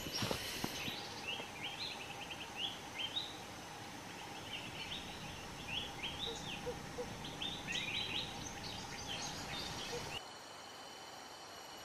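Small birds calling: clusters of quick, short rising chirps, repeated again and again, over a faint steady high hum. The chirping stops about ten seconds in.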